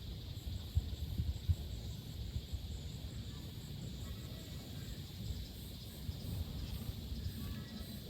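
Outdoor forest ambience: faint insect chirps repeating evenly and high up, over a steady low rumble with a few soft knocks.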